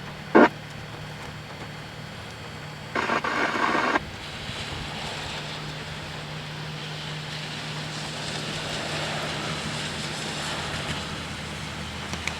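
Steady hiss of rain and wet-street noise during a thunderstorm, swelling slowly over a low steady hum. A short sharp crackle comes just after the start, and about a second of louder harsh noise about three seconds in.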